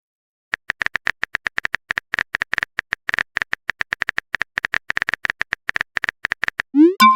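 Keyboard-typing sound effect: a long run of quick, irregular clicks, followed near the end by a short electronic message chime with a rising glide.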